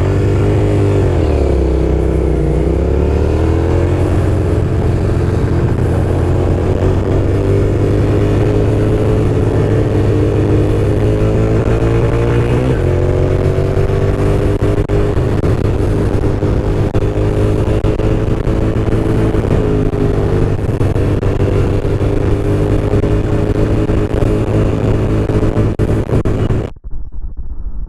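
Motorcycle engine running under way. The engine note dips and rises again about two seconds in and shifts abruptly about halfway through. Near the end the sound cuts suddenly to a muffled, dull sound.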